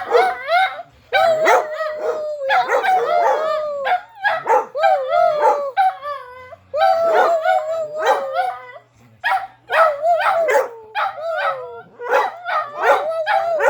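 Dog barking and yipping over and over in quick calls, with a few longer, drawn-out howling cries that bend in pitch.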